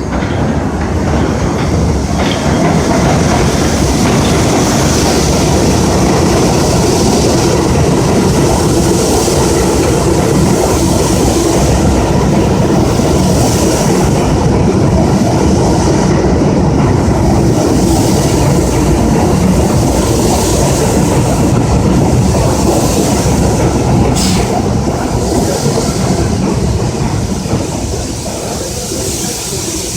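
R62A subway train running through the station, wheels clattering over the rails with a loud, steady rumble that eases off near the end. A brief high squeak comes about 24 seconds in.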